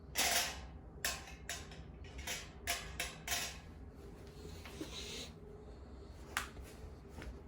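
Objects being handled by hand: a series of short rustles and light clicks and knocks, the loudest just after the start, a softer rustle midway and a single sharp click near the end.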